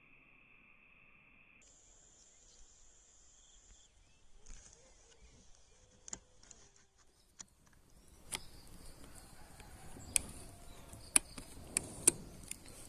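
Insects buzzing steadily at a high pitch, the tone jumping higher about a second and a half in and stopping a few seconds later. In the second half comes faint rustling with a handful of sharp clicks.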